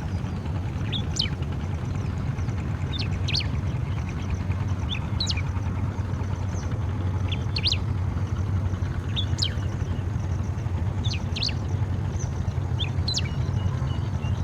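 Striated grassbird calling: short phrases of quick sharp notes repeated about every two seconds, seven times. Under them runs a steady low rumble.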